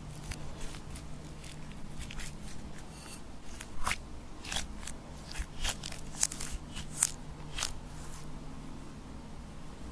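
Glossy glitter slime being squished and stretched by hand, giving irregular sticky clicks and crackling pops that are thickest and loudest in the middle of the stretch.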